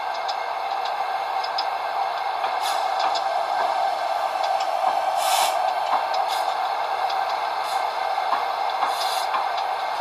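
Long train rolling steadily past, with a continuous rumble of wheels on rail, scattered clicks, and a few short high hisses from the cars.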